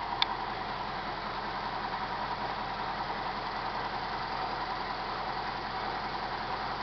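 Toyota 5K inline-four petrol engine in a jeep idling steadily. A single sharp click sounds just after the start.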